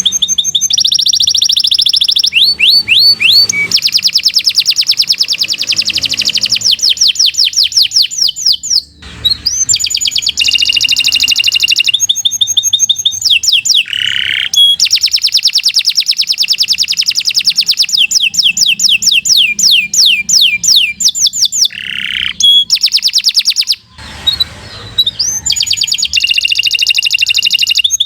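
Domestic canary singing a long, loud song of fast trills and repeated whistled notes, breaking off briefly about nine seconds in and again a few seconds before the end.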